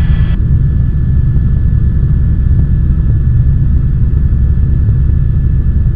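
Helicopter in cruise flight, its rotor and engine making a loud, steady low drone heard from inside the cabin.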